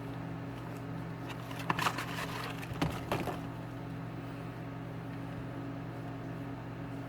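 Steady low hum, with a few light clicks and knocks about two and three seconds in, typical of oil-filter parts and tools being handled.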